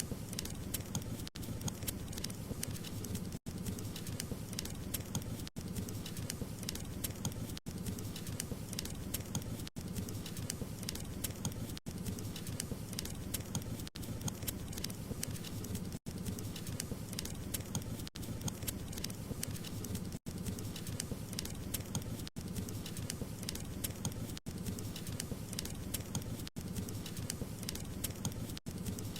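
Wood fire crackling steadily: many small snapping pops over a low rumble of burning flames. The sound cuts out very briefly about every two seconds.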